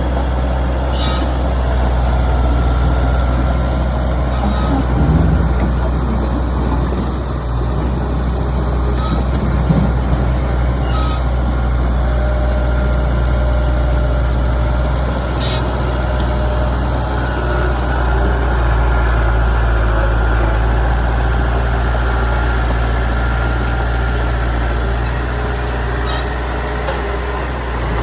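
Heavy diesel engine running steadily with a low, even drone, with a few faint high-pitched clicks scattered through it.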